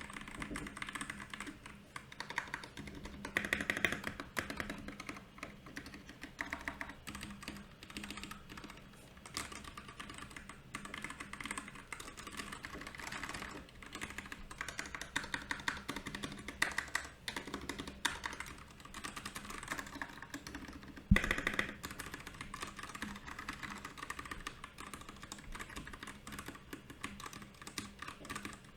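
Continuous fast typing on a Royal Kludge RK68 mechanical keyboard: a dense, uneven patter of key clicks and clacks, with one louder key strike about two-thirds of the way through.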